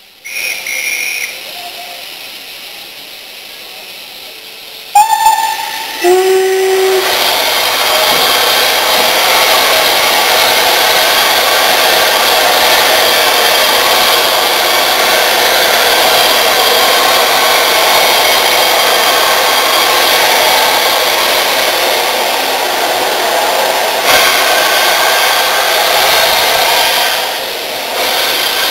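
Steam locomotive: a short high whistle, then about five seconds in a louder whistle that slides down in pitch, followed by a long steady hiss of escaping steam that eases off near the end.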